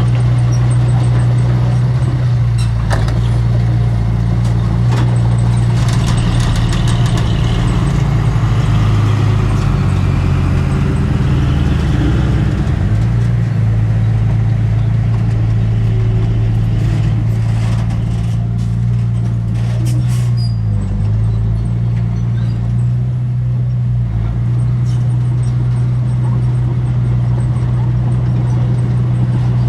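Diesel engine of heavy earthmoving machinery running steadily with a deep hum. Its pitch dips for a few seconds about ten seconds in and again briefly around twenty-one seconds in, under scattered clanks and knocks of metal.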